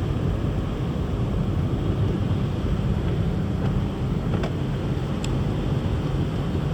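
Car driving on a slush-covered road, heard from inside the cabin: a steady low rumble of tyres and engine, with a couple of faint ticks about four and five seconds in.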